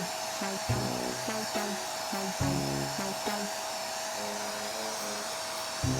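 Steady high-pitched whine and hiss of a small electric motor in a pet grooming tool running without a break, under background music with a repeating melody.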